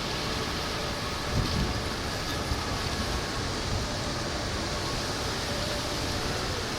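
Wind blowing across the microphone: a steady rushing noise with a brief low rumbling gust about a second and a half in.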